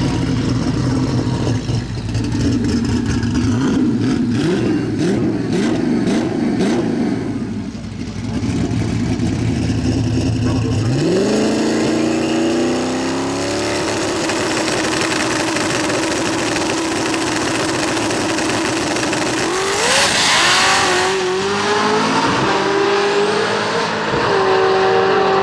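Drag race car engines running loud. The pitch climbs sharply about eleven seconds in as an engine revs up, and there is another loud burst and rise in pitch about twenty seconds in.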